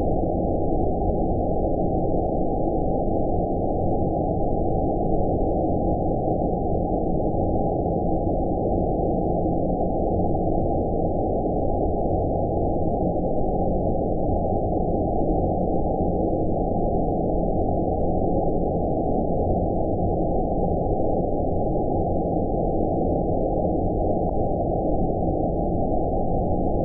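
Steady, unchanging deep rumbling hiss with all treble cut away: the 'outer space' white-noise sleep track, a dark, muffled noise with no events in it.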